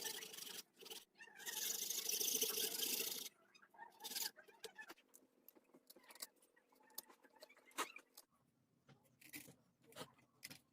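Bamboo being worked with a hand tool: about three seconds of harsh scraping noise with a short break about a second in, then scattered light clicks and taps.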